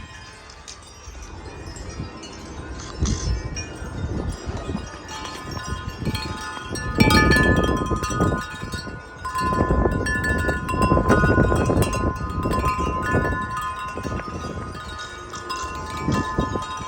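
27-inch Corinthian Bells wind chime ringing in strong gusting wind, several tones overlapping and sustaining, heaviest in the second half. Gusts buffet the microphone with a low rumble that swells and fades several times.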